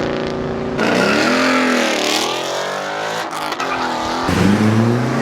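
A car's engine revving hard, its pitch falling and climbing again several times, with the tires squealing as the car slides out under power.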